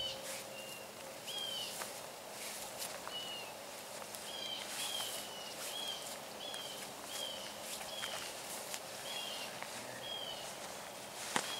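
A bird calling over and over, a short rising-and-falling chirp roughly every half second, over soft footsteps and rustling through dry grass. A single sharp click near the end.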